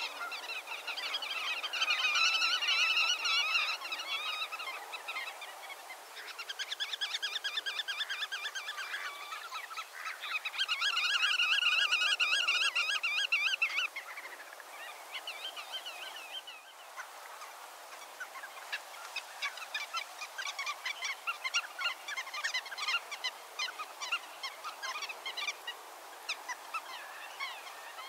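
Birds calling in a busy chorus: three bursts of rapid chattering calls lasting a few seconds each in the first half, then quieter scattered quick notes.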